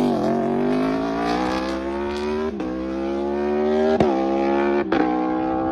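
Motorcycle engine accelerating, its pitch climbing steadily, with short breaks about two and a half, four and five seconds in.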